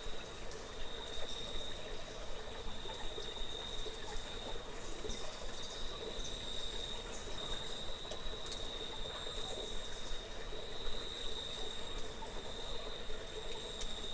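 Insects trilling steadily in one continuous high tone, over a faint background hiss with scattered small clicks.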